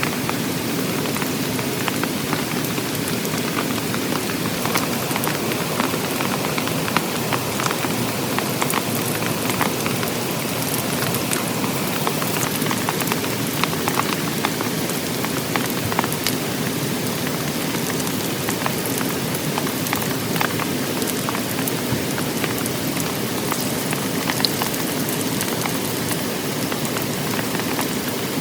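Heavy rain falling steadily on a tent, with many separate drop hits ticking through the hiss.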